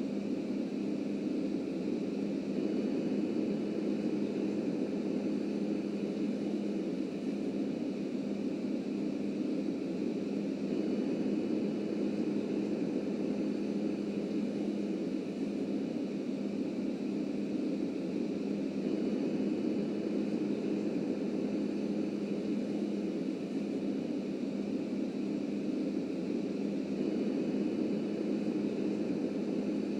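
Subway train running: a steady rumble with a constant low hum and no distinct events.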